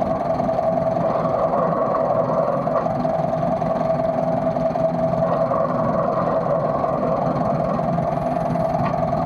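An engine running steadily at a constant pitch, with a held mid-pitched tone over a lower hum.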